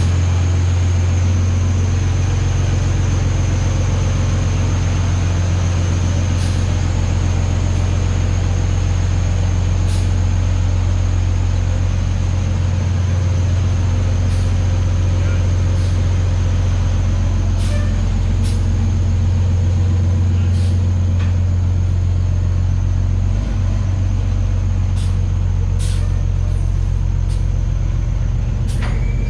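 A truck engine idling steadily, a loud low hum with a scattering of sharp clicks or knocks over it.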